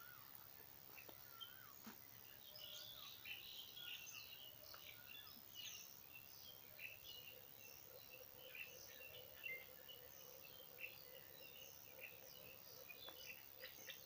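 Faint chorus of small birds chirping, many short high calls overlapping, with a faint steady low hum through the second half.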